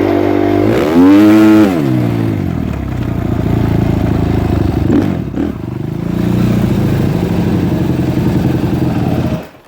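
Suzuki RM-Z250 four-stroke single-cylinder motocross engine running, with one sharp throttle blip a second in and a couple of smaller revs later, then cutting off suddenly near the end. It now starts and runs after a camshaft from a different bike, the cause of its no-start, was sorted out.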